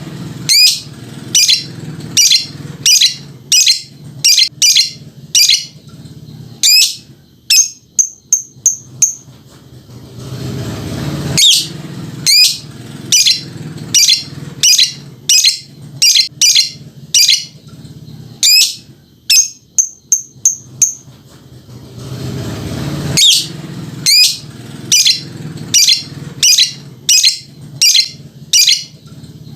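Lovebird ngekek: long runs of sharp, shrill chirps repeated about twice a second, each run lasting around ten seconds, with brief clusters of quicker, higher chirps between the main calls.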